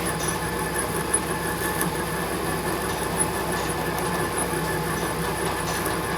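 Lathe machine running steadily while turning the shaft, a constant mechanical hum with a few faint ticks.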